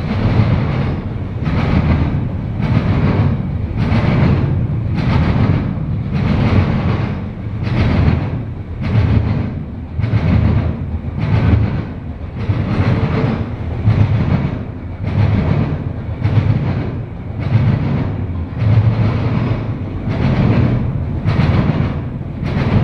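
Eastbound intermodal freight train rolling past at speed, its wheels clacking over the rail joints in a steady rhythm of about one clack a second over a continuous rumble.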